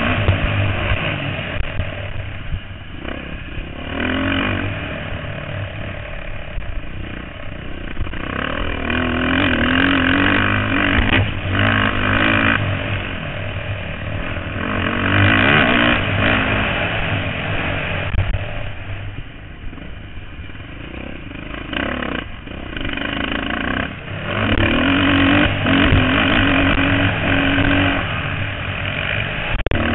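Motocross dirt bikes racing, their engines revving up and down in repeated surges as riders accelerate and shift, with the loudest passes about ten, fifteen and twenty-five seconds in.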